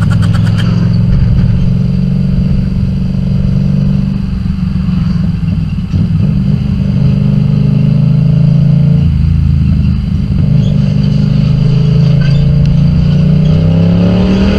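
Motorcycle engine running steadily while riding, its pitch rising near the end as the bike speeds up.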